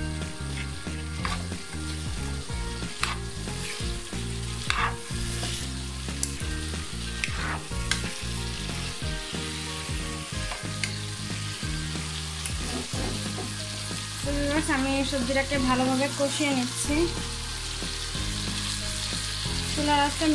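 Drumstick pieces and sliced potato sizzling in spiced oil in a wok, with a spatula stirring and scraping against the pan every second or two.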